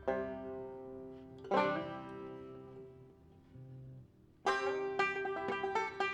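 Bluegrass banjo playing: a few ringing chords that die away, then a fast run of picked notes starts a little past the middle.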